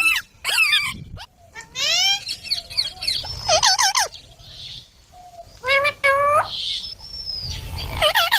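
Green baby parrot chirping: a run of short, repeated pitched calls that rise and fall, in bursts about every one to two seconds.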